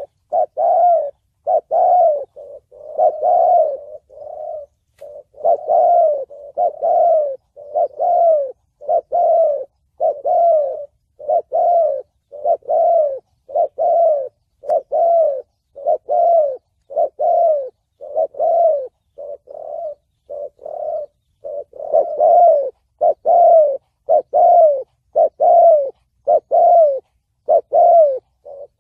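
Spotted dove cooing over and over in the 'thổ bầu' voice prized by dove keepers: a steady string of short, low, falling coo notes, a little more than one a second, with a few brief pauses.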